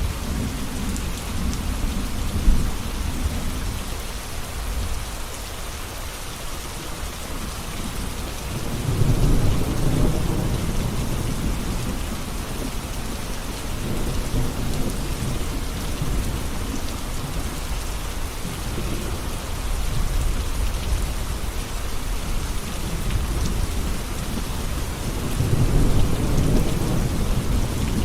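Steady rain with rolling thunder. Low rumbles swell about a third of the way in and again near the end.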